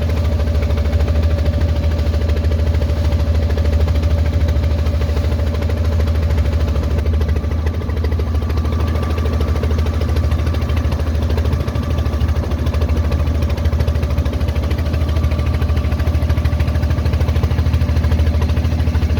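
Tour boat's engine running steadily: a loud, even low hum with a faint steady whine above it.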